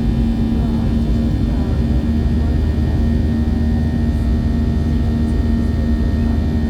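Airliner engines running steadily: a constant loud drone with a strong, even hum that does not change.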